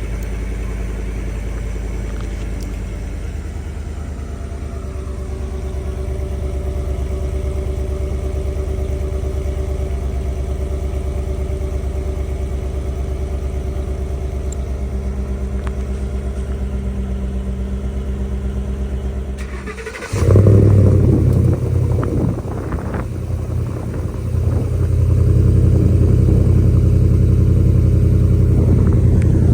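Ford F-150's 5.0L Coyote V8 running through a stainless cat-back aftermarket exhaust with a steady low exhaust note. About two-thirds of the way through it abruptly gets louder, with a few uneven surges, then settles into a louder, deeper steady drone.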